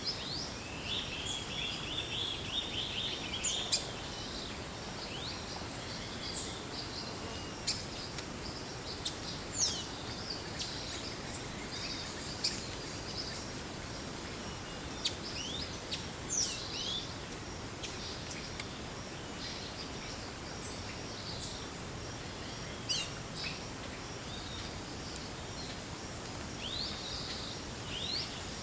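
Forest ambience: many different birds calling, with short chirps, whistles and quick sweeping notes scattered throughout, including a warbling run in the first few seconds, over a steady background hiss. A brief high-pitched buzz comes in around the middle.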